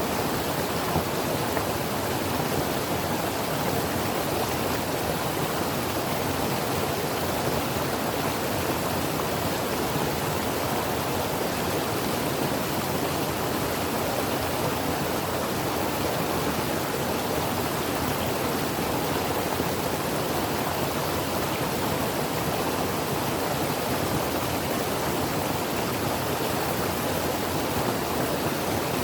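Creek water flowing and splashing over rocks in a steady, even rush.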